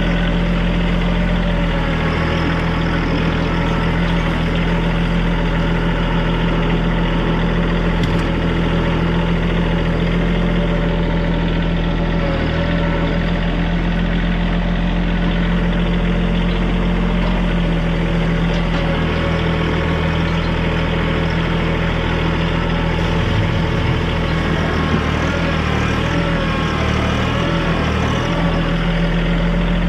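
TYM compact tractor's diesel engine running steadily while working. Its pitch wavers for several seconds in the second half, then steadies again.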